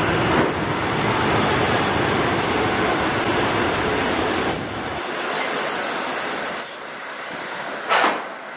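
Passenger coaches hauled by a TEM TMH diesel shunting locomotive rolling slowly past on the rails, with a steady wheel rumble and a faint high wheel squeal from the curve partway through. A single sharp knock near the end is the loudest moment.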